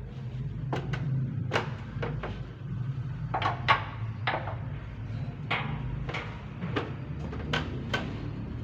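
A dozen or so irregular sharp knocks and clicks, like hard objects being handled, over a steady low hum.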